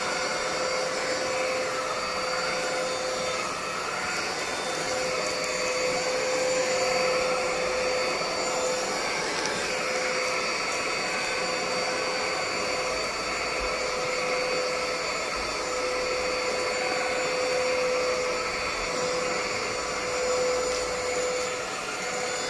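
ANKO cordless stick vacuum cleaner's electric motor running steadily, a constant whine over a rushing air noise.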